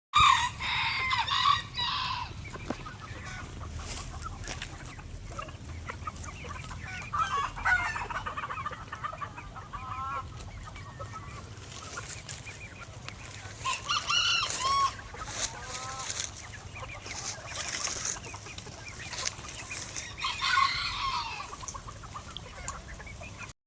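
Roosters crowing several times, with hens clucking in between, over a steady low hum.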